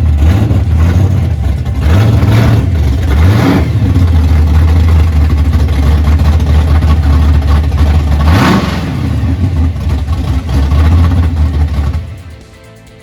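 Car engine running at idle with a low rumble, revved up and back down twice between about two and three and a half seconds in and once more about eight and a half seconds in. It cuts off suddenly about a second before the end.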